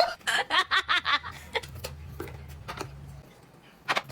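A person laughs briefly in short bursts, followed by a low steady hum with a few small clicks.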